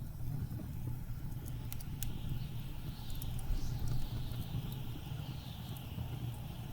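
Blizzard wind rumbling steadily beneath the snaps and pops of a crackling wood fire. A higher hiss of wind rises about a second and a half in and fades near the end.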